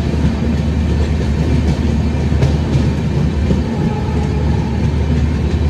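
Gatimaan Express passenger coach running fast through a station: a loud, steady rumble of wheels on rail heard from the door vestibule, with a few faint clicks over rail joints.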